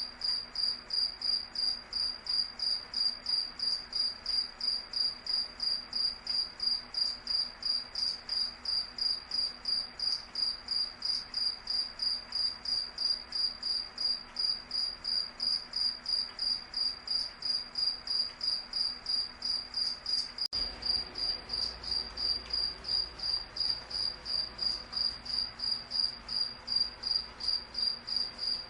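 Cricket chirping steadily in a high-pitched, even rhythm of about three chirps a second.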